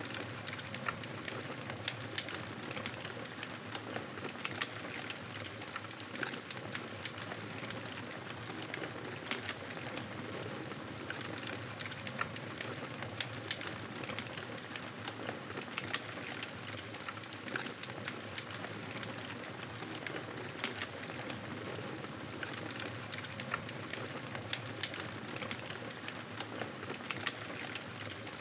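Campfire burning with a steady hiss and frequent small crackles and pops.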